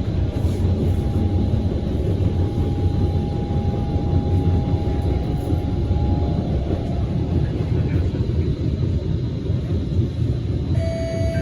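Inside a Kawasaki Heavy Industries C151 metro train running on the line: steady wheel-on-rail rumble, with a faint level whine that fades out about six seconds in. Near the end a short set of clear electronic tones sounds.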